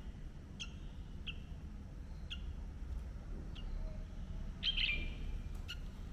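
A bird chirping in short, sharp, high notes, about seven in all at uneven spacing, with a louder burst of calls just before the five-second mark, over a steady low background rumble.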